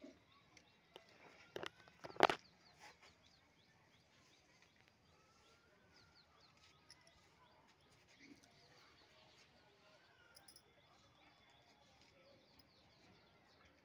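Small birds chirping faintly in the background, many short quick chirps. Two sharp knocks about two seconds in.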